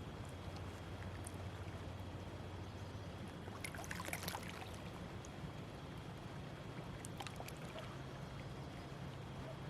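Water splashing and lapping in small bursts, most about four seconds in and again around seven seconds, over a steady low hum.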